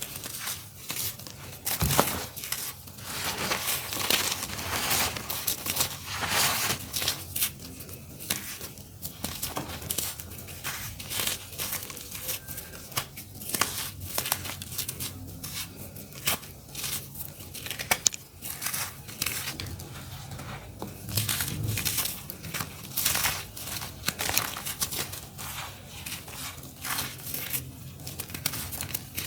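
Lumps of dry, crunchy earthy dirt being crumbled and crushed by hand, giving a dense, irregular run of crisp crackles and crunches.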